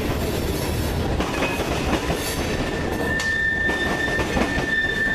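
CSX freight train's tank cars rolling past at trackside: a steady rumble of wheels on rail with clicks over the rail joints. A steady high-pitched wheel squeal starts about three seconds in.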